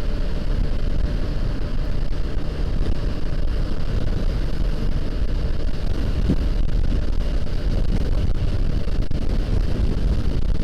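Wind rushing over an action camera's microphone, with the Honda CBR500R's parallel-twin engine running underneath, steady throughout.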